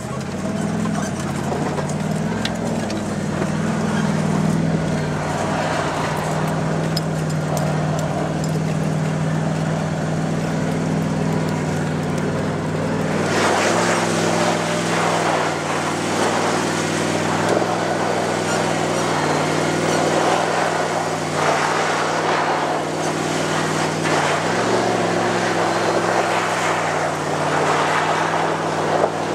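The Jeep Grand Cherokee ZJ's 5.2-litre V8 pulls steadily under load in low second gear on a steep dirt hill climb. About thirteen seconds in, a loud rushing noise of wind and churned dirt joins the engine.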